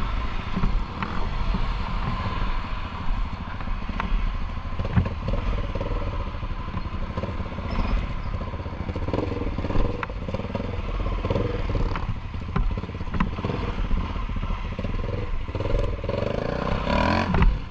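Enduro motorcycle engine running under load, with occasional sharp knocks. Its pitch rises as it revs up near the end.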